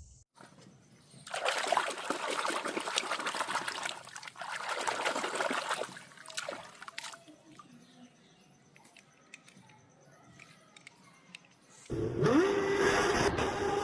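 Water splashing or pouring in two bursts of a few seconds each while toys are rinsed, then quiet. Near the end a toy's electronic sound effect starts with a rising glide into a steady tone.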